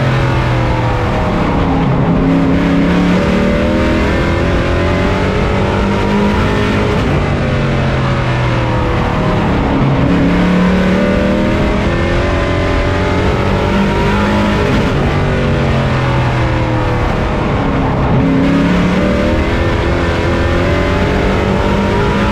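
Pro truck race engine heard from on board, running hard at racing speed, its pitch rising on the throttle and dropping off again several times as the truck laps the track.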